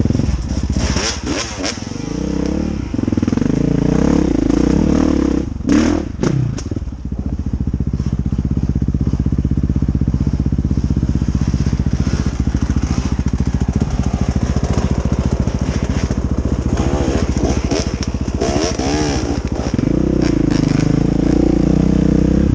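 Dirt bike engine on a trail ride, revving up and down in the first few seconds, running at a steadier, lighter throttle through the middle, then revving again near the end.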